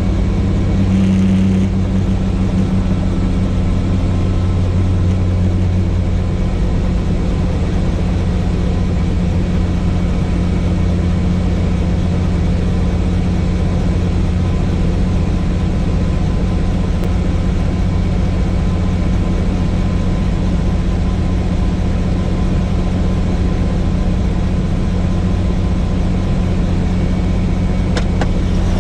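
Helicopter running with a steady, unbroken drone of rotor and engine.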